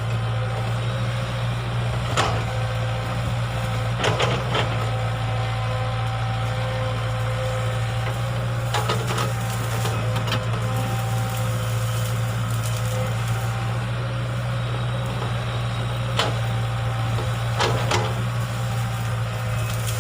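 Excavator's diesel engine running steadily under work, with a few sharp knocks and clanks scattered through.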